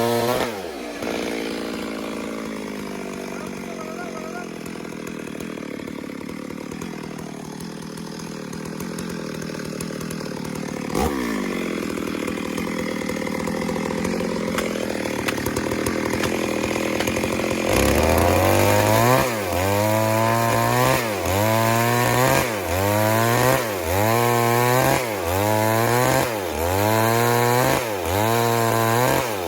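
Stihl MS 382 chainsaw ripping a log lengthwise, running steadily under load. About two-thirds of the way in, its revs start rising and falling over and over, roughly once a second.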